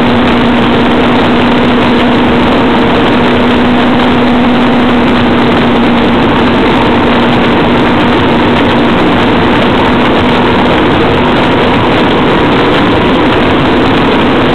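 Motorcycle engine running at a steady speed while riding, its note holding even, dipping slightly about two-thirds of the way through and rising again near the end, under a constant rush of noise.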